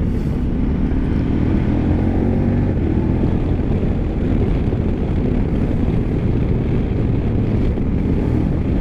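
KTM 1290 Super Adventure's V-twin engine running steadily while riding at road speed, with heavy wind rush over the microphone.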